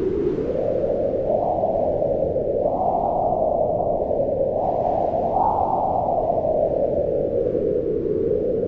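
Howling wind, a steady hiss whose pitch slowly rises and falls.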